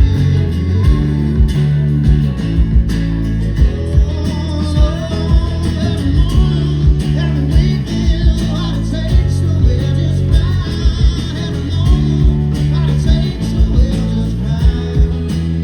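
Live band playing an instrumental passage of a rock-pop song, with guitar, bass and a steady drum beat.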